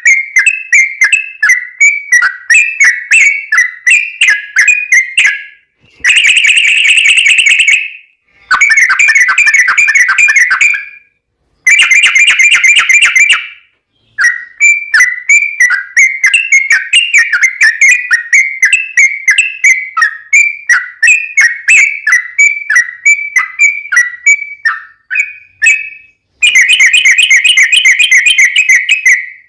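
Yellow-vented bulbul (trucukan) singing loudly in a long run of quick chattering notes. Several times this breaks into a dense rapid roll, the long 'ropel' phrase, separated by brief pauses.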